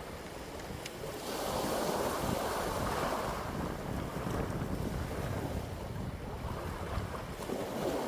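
Wind blowing in gusts: a rushing that swells about a second in, eases off, and builds again near the end, over a low rumble of wind buffeting the microphone.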